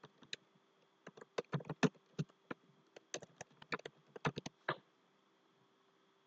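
Irregular clicking of a computer keyboard and mouse, about fifteen clicks, stopping about five seconds in and leaving a faint steady hum.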